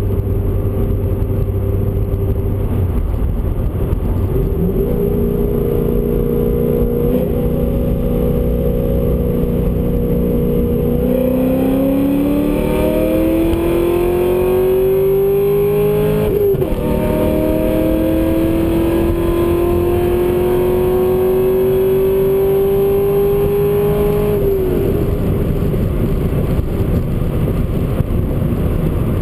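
V8 car engine accelerating, heard from inside the cabin over road noise: the pitch climbs steadily, drops sharply at an upshift about halfway through, climbs again, then falls away as the throttle is lifted about five seconds before the end.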